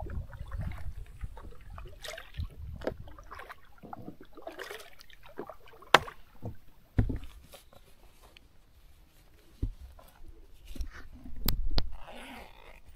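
Small boat paddled on a river: water sloshing and splashing at the paddle strokes, with a few sharp knocks.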